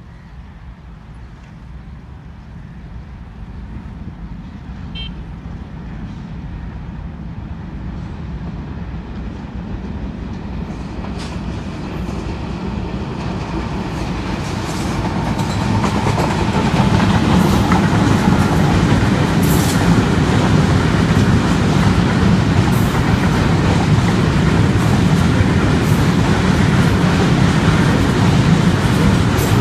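Container freight train led by a General Electric GEU-40 diesel-electric locomotive approaching and passing. Its sound grows steadily louder over about fifteen seconds, then holds as the wagons roll by with a steady rumble and occasional clanks.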